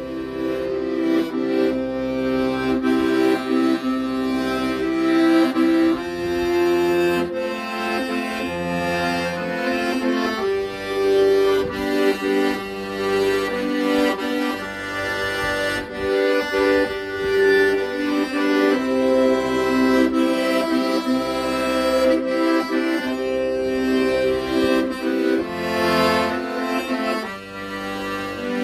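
Accordion playing a slow, sentimental ballad melody over held chords, with bass notes underneath that change about once a second.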